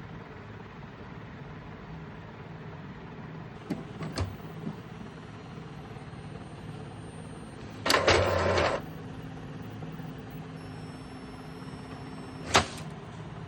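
Epson inkjet printer mechanism at work: a few light clicks, a brief motor whirr lasting under a second about two-thirds of the way through, then one sharp click near the end, over a steady low hum.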